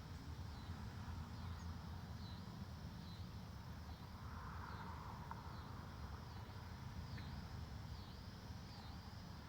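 A songbird repeating one short, high, slurred note about one and a half times a second, over a low steady rumble of wind in the woods.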